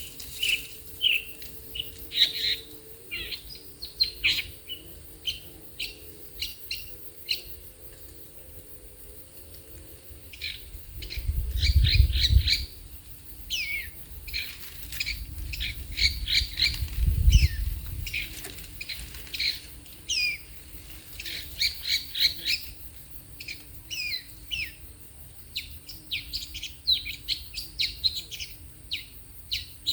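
Bird calls: many short, sharp chirps in quick irregular runs all through. Two low rumbles come around the middle, and a faint wavering hum sits underneath.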